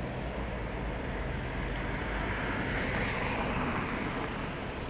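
Electric commuter trains moving through an open-air railway station, heard as a steady rumbling noise mixed with city traffic; a hiss swells and fades about two to four seconds in.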